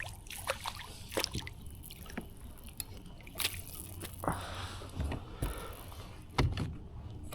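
Water sloshing and dripping with scattered small clicks and splashes, as a freshly hooked bream is played in beside a kayak. A louder knock comes about six and a half seconds in.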